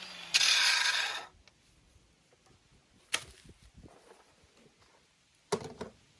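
A power cutting tool spinning down with a falling whine. Then a loud, harsh burst of noise lasting just under a second, and later a sharp click and a short clatter of metal being handled.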